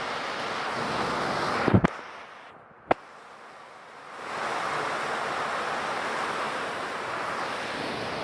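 Steady hiss of falling rain. Nearly two seconds in, a few sharp knocks cut in and the rain drops away for about two seconds, with one click in the gap, before the hiss comes back.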